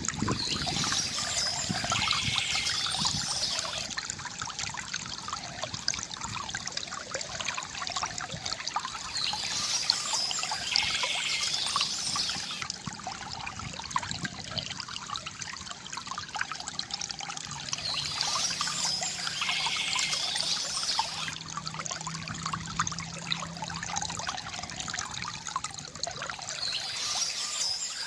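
Water from a bamboo fountain trickling and gurgling steadily, swelling with a brighter splashing hiss about every nine seconds.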